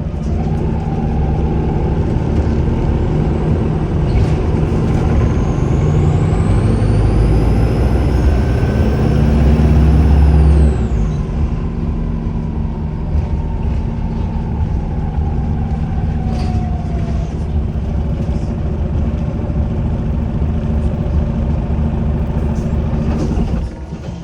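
Volvo B5LH hybrid bus engine pulling under load, with a high turbo whistle that rises, holds for a few seconds, then falls away as the engine eases off partway through. Afterwards the engine runs more quietly under a lower whine that slowly falls.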